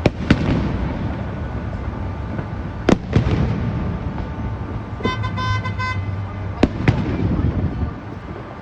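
Fireworks shells bursting in a series of sharp bangs, several seconds apart with one pair close together. A car horn honks briefly about five seconds in.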